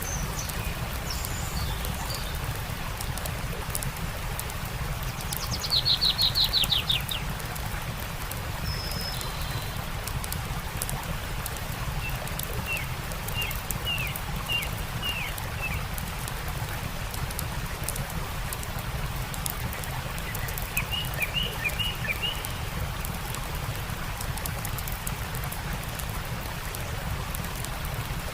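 Songbirds calling over the steady rush of a stream and the crackle of a campfire: a loud, quick falling trill about six seconds in, then two runs of short chirps later on.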